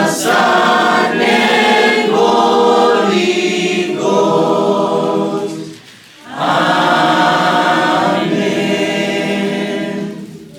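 A group of voices singing a worship song together, with a short break about six seconds in; the singing fades out near the end.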